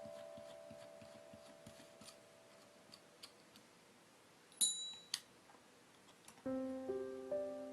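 Two sharp metallic clicks about half a second apart, the first with a brief ringing, among faint small ticks of handled metal parts. Background piano music fades out at first and starts again near the end.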